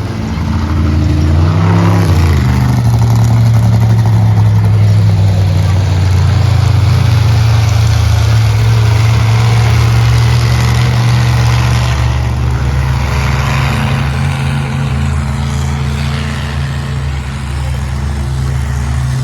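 Mini monster truck engines running loud under load, rising in pitch about two seconds in and then holding steady.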